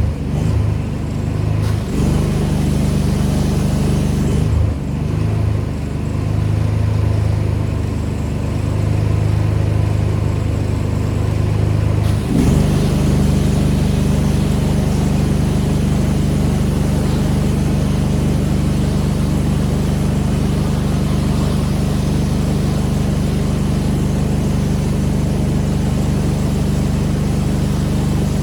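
Engine of a pressure washer running. For about the first twelve seconds its note wavers and shifts, then it settles into an even, steady run.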